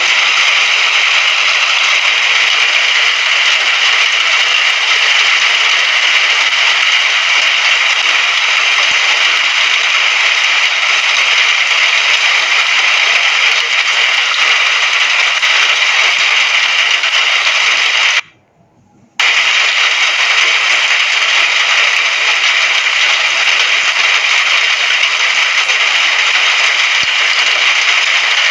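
Steady hiss of heavy rain, a recorded rain sound effect, which drops out to near silence for about a second some two-thirds of the way through before coming back unchanged.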